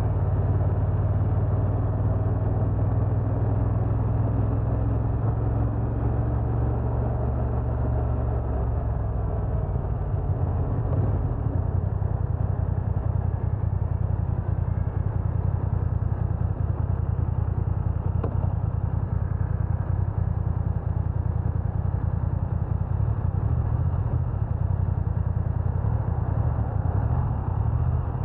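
BMW F900R motorcycle's parallel-twin engine running while the bike is ridden, under a steady low rumble of wind and road noise. The engine note holds steady for the first eight seconds or so, then blends into a rougher, more even rumble.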